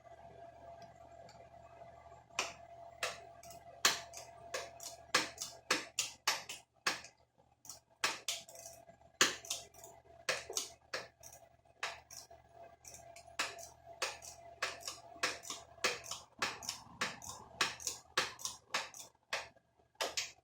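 Irregular sharp metallic clicks and taps, a few a second, from hand tools and parts being handled while the carburetor is fitted to a small ATV, over a faint steady hum.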